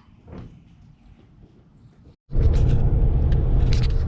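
A quiet stretch with one faint knock about half a second in, then after a sudden cut a loud, steady low rumble of a road vehicle driving.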